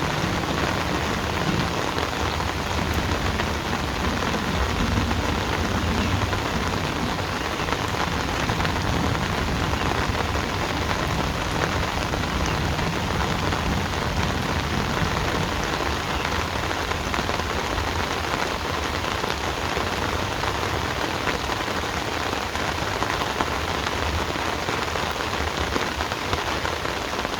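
Heavy rain falling steadily, an even, dense patter with a low rumble underneath and no let-up.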